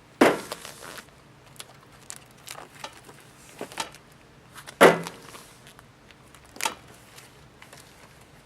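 Scattered light clicks and knocks of objects being handled in a quiet room, with one louder knock about five seconds in.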